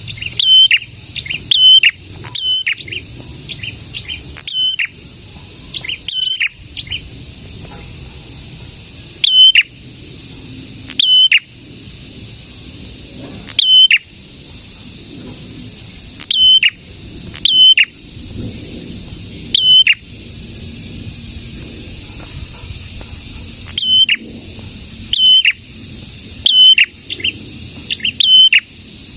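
Prenjak (a small prinia-type songbird) calling: loud, sharp high chirps, often in pairs, repeated every second or two, each ending in a quick downward drop.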